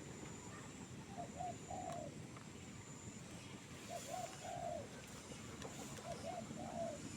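A dove cooing: three phrases spaced about two and a half seconds apart, each two short coos followed by a longer, drawn-out coo.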